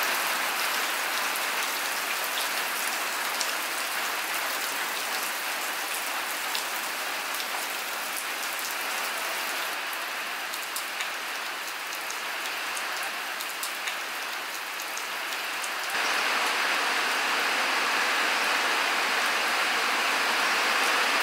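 Steady rain falling on the wet ground and surfaces, with scattered sharp ticks of nearby drops. The rain grows louder about three-quarters of the way through.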